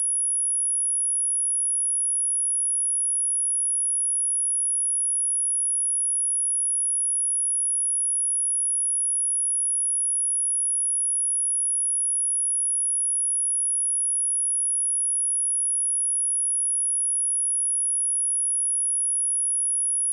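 A steady, unbroken high-pitched pure sine tone at 10313 Hz, a speaker test and cleaning tone.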